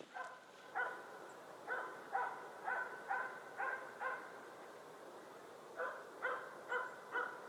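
Hunting dog barking steadily at a bird it has treed, holding it in the tree: a run of short barks about two a second, a brief pause, then another quick series.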